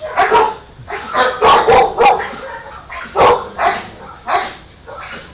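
A dog barking repeatedly: about ten short, sharp barks in quick runs with brief pauses between them.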